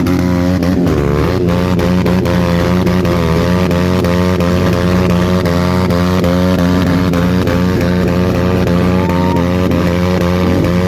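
Motorcycle engine running loud and steady, its pitch wavering slightly up and down.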